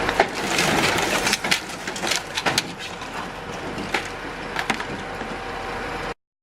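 Vehicle crash: a cluster of sharp cracks and crunching impacts over rough noise, thinning out about five seconds in, then the sound cuts off suddenly near the end.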